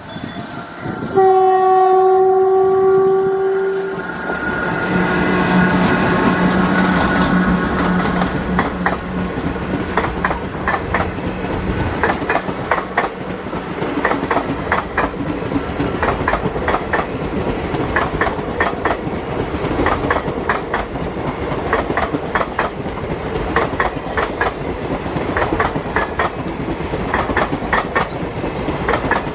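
An Indian Railways electric train's horn sounds one long steady blast of about three seconds. The train then passes close by, its wheels clicking rapidly over the rail joints.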